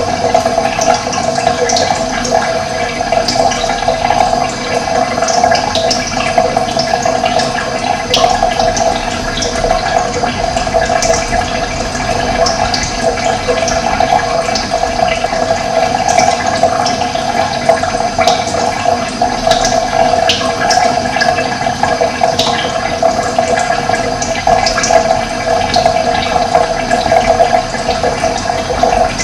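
Steady running water, with many short bird chirps scattered throughout.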